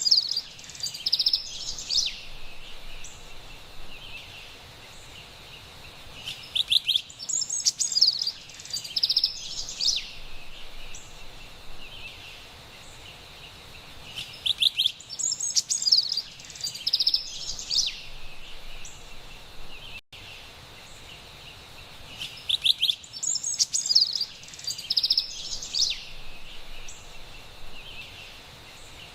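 Carolina wren singing loud bouts of rapid, repeated phrases, one bout roughly every eight seconds, over a faint steady hiss of forest ambience.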